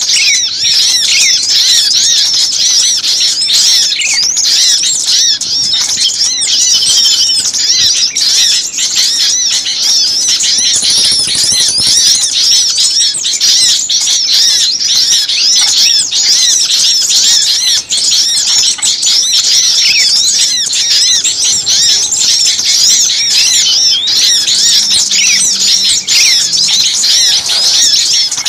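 A dense, loud chorus of many small songbirds chirping and twittering rapidly over one another without a break: a bird-lure recording of agitated small birds calling noisily.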